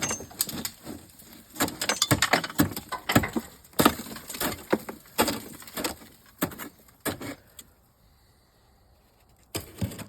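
Rapid, irregular knocking and clattering of parts and tools being handled, dying away after about seven seconds, then two more knocks near the end.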